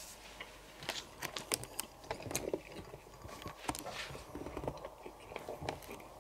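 A person chewing a mouthful of cheese spaetzle, with scattered faint clicks and mouth noises.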